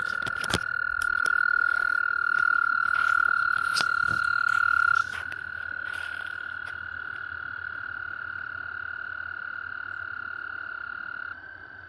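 Frogs trilling: one long, steady, high-pitched trill without a break, dropping in loudness about five seconds in and again near the end. A single sharp click sounds about half a second in.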